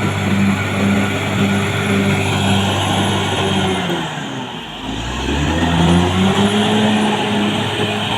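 Caterpillar D6R XL bulldozer's diesel engine running hard. About four seconds in, the engine note sags to a low point, then climbs back up over the next second or so.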